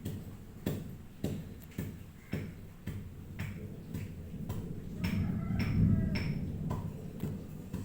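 Irregular light clicks and taps, roughly two a second, over a low rumbling noise that grows louder about five to six seconds in.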